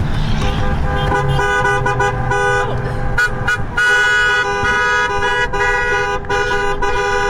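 Many vehicle horns from a passing truck convoy honking at once, several long steady tones at different pitches overlapping, dropping out and coming back in short breaks.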